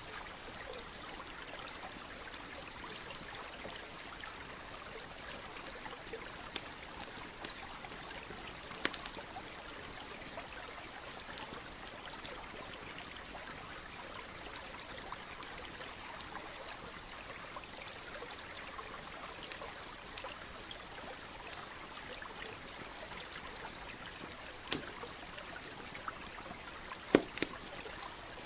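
Campfire crackling, with scattered sharp pops and snaps, over the steady rush of a small stream. The loudest pops come about nine seconds in and twice near the end.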